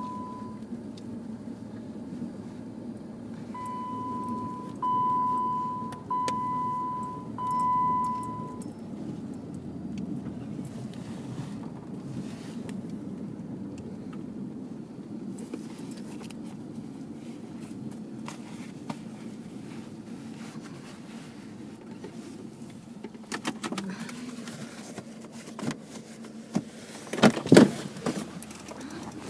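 Vehicle engine running steadily, heard from inside the cab, with a dashboard warning chime beeping four times a few seconds in, each beep about a second long. Near the end come a few sharp clatters and loud knocks.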